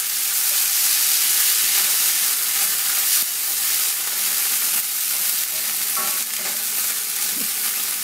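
Canned tuna sizzling in hot canola oil in a cast iron skillet at searing heat: a steady frying hiss with a few faint ticks.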